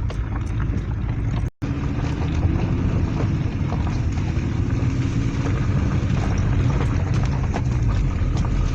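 Car driving on a rough, unpaved mountain road: a steady low engine and tyre rumble with scattered clicks and knocks from the road surface. The sound cuts out for a moment about a second and a half in.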